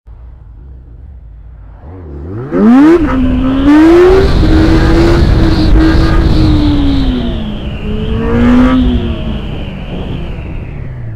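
Yamaha FZS600 Fazer's inline-four engine revving hard as the motorcycle accelerates away, its pitch climbing steeply about two seconds in, then held at high revs under loud wind rush on the helmet microphone. The revs rise briefly again and then ease off near the end.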